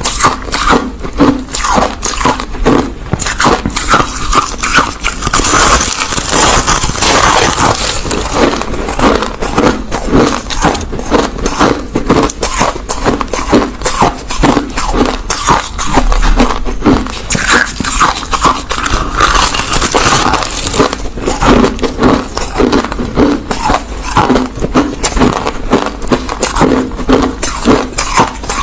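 Crushed ice being chewed close to the microphone: rapid, dense crunching and cracking, heavier for a few seconds twice.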